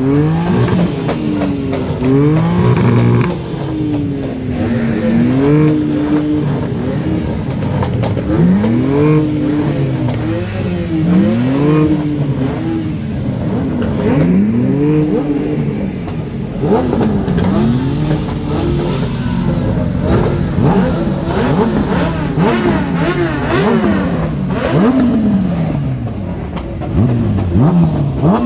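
Car engines revving over and over, their pitch climbing and dropping again and again, with more than one engine often heard at once.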